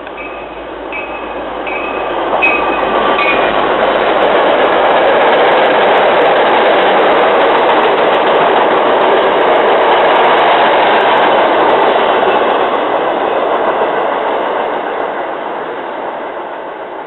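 MBTA diesel commuter train with Kawasaki bi-level coaches passing at speed: a rush of wheel and rail noise that builds over the first couple of seconds, holds loud for about ten seconds, then fades as the train moves away. A bell rings about once every three-quarters of a second during the first three seconds.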